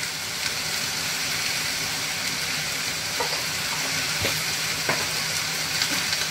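Stir-fried cabbage and carrot sizzling steadily in a wok over a gas flame, with a few light knocks in the middle.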